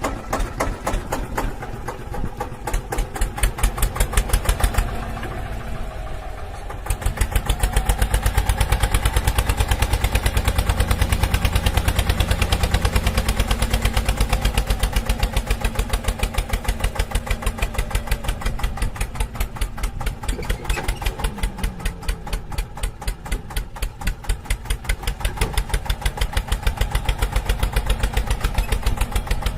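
Small engine of a homemade mini tractor running with a fast, even pulsing beat. It drops back briefly about five seconds in, then runs louder and steady.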